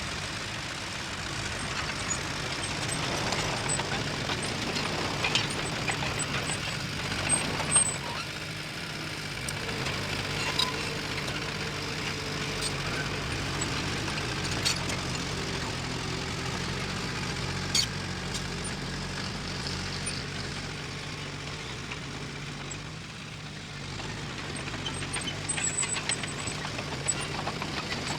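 Diesel engine of heavy earthmoving machinery running steadily, with sharp metallic clanks every few seconds and short high squeaks now and then.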